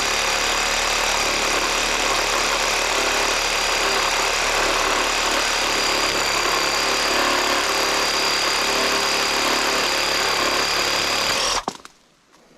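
A motor running steadily with a constant whine, cutting off suddenly near the end.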